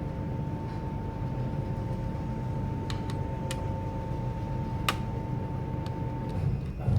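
Steady low hum with a faint constant high tone, and a few sharp light clicks around the middle.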